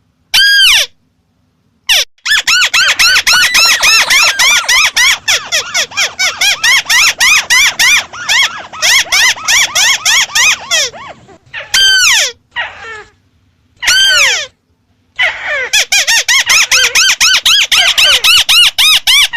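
White-browed crake calling: long runs of rapid chattering notes, about four or five a second, broken a few times by single longer calls that fall in pitch.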